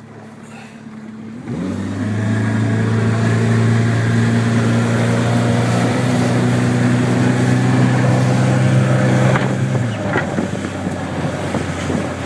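Motorboat engine running, coming up strongly about a second and a half in, holding steady, then easing off near the end, over a rush of water noise.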